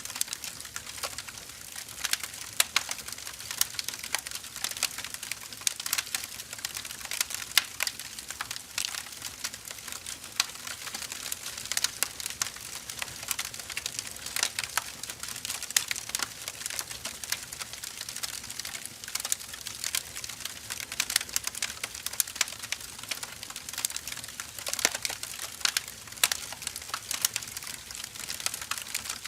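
Wood fire burning, crackling with a steady hiss and many sharp, irregular pops and snaps.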